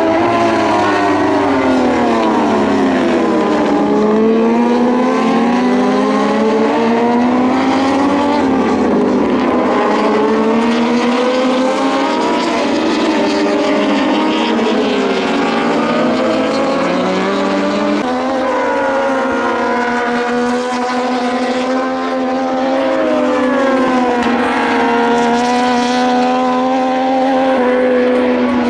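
Several Moto2 bikes' Triumph 765 cc three-cylinder engines running hard around the circuit, overlapping, their pitch repeatedly climbing and dropping with throttle, gear changes and passing.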